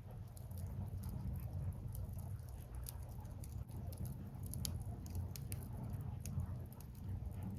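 Burning firewood crackling, with many small irregular pops and snaps over a steady low rumble.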